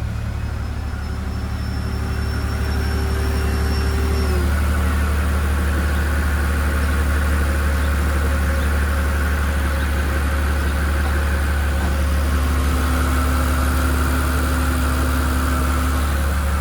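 A 2018 Mercedes-AMG G65's twin-turbo V12 idles steadily shortly after a cold start. A faint high whine drops away and stops about four seconds in.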